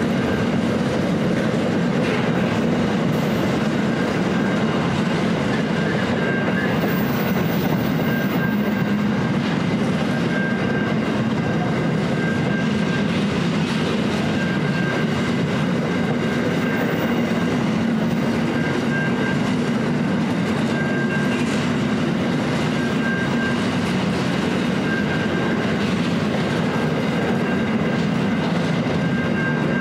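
Container wagons of a long intermodal freight train rolling slowly past at about 25 km/h, a steady, even noise of steel wheels running on the rails.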